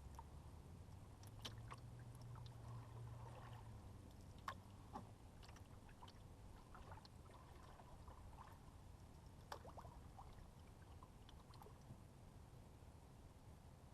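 Faint canoe paddling: water trickling and dripping off the paddle, with a few light knocks of the paddle, over a low steady rumble.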